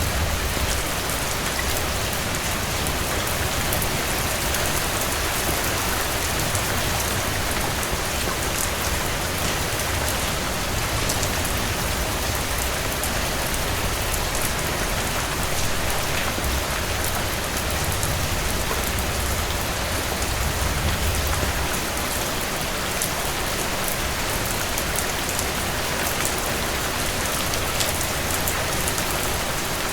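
Heavy rain falling steadily on a cabin porch: a dense, even hiss with a low rumble underneath and scattered small sharp ticks of drops.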